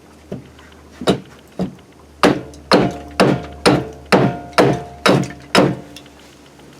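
Repeated hard striking blows: a few scattered hits, then a steady run of eight strikes about two a second, each leaving a short ringing tone.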